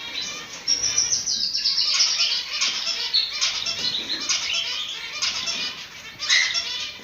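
Cockatiels chirping and whistling in rapid, overlapping calls, as in an aviary flock.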